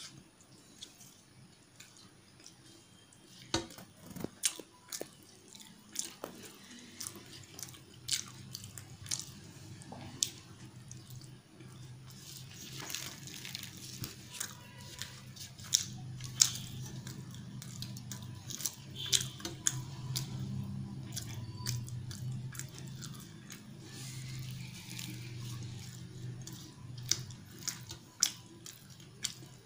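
Close-up chewing and wet mouth smacks of someone eating puri and potato curry by hand, with many scattered sharp clicks. A low hum runs underneath, stronger through the middle.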